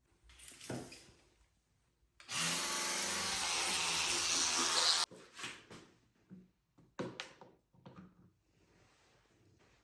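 A small electric motor runs steadily with a hum for about three seconds, with short knocks and clicks before and after it.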